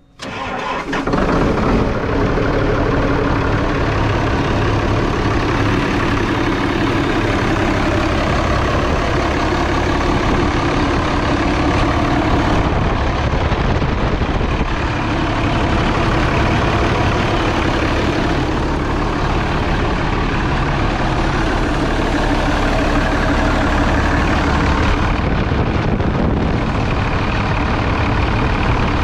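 New Holland tractor's diesel engine starting up about a second in, then running steadily at idle.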